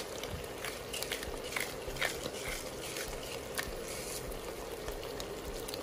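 Chicken strips frying in butter and oil in a pan, a steady sizzle with irregular crackles and clicks, as the water the chicken released cooks off.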